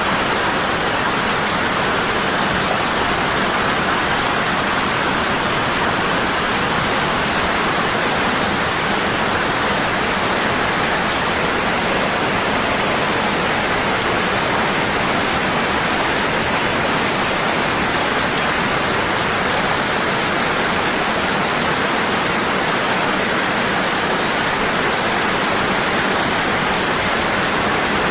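Waterfall rushing strong and constant: a steady, even roar of falling water.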